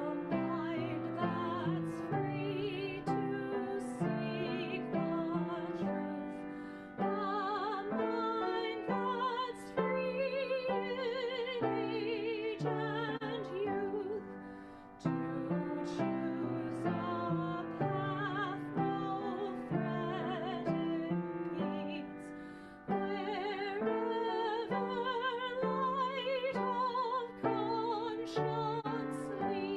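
A recorded hymn: a singer with a strong vibrato over piano accompaniment, sung in phrases with a short break between them about every eight seconds.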